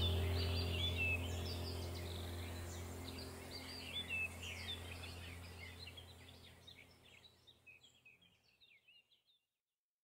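Birds chirping and calling in quick, short notes over a low steady hum, the whole fading out to silence about seven seconds in.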